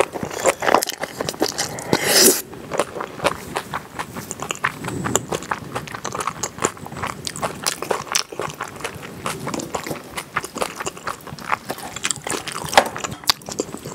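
Close-miked eating of spicy kimchi pasta: chewing with many quick, irregular clicks of the mouth and lips.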